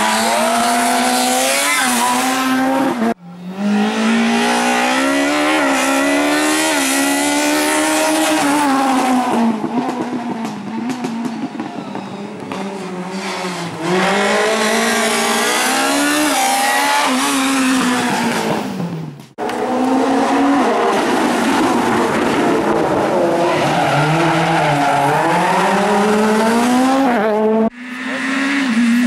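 Rally cars driven flat out on a special stage, engines revving hard and falling back through gear changes, with tyre squeal. The sound cuts abruptly between passes of different cars three times.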